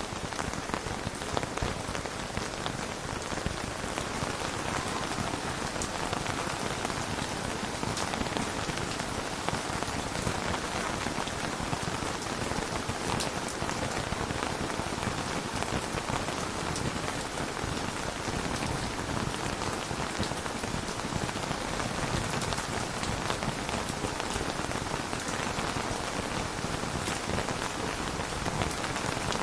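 Steady rain falling: an even hiss with a few sharp single drop clicks through it.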